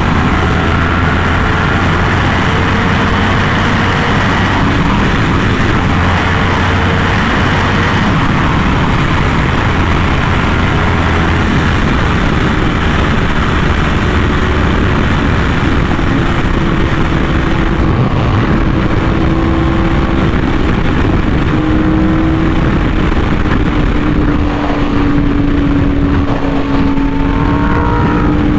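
Yamaha R1M's crossplane inline-four running through an SC Project exhaust at a steady cruise, mixed with a constant rush of wind noise. The engine note drifts slowly up and down in pitch in the second half, with no hard revving.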